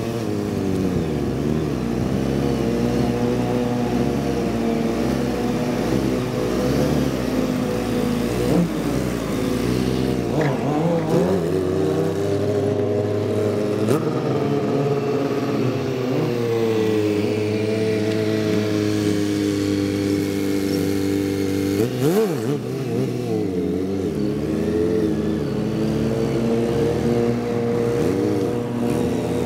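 Motorcycle engines running and revving, their pitch rising and falling. About 22 seconds in, a bike sweeps past with a quick swoop in pitch.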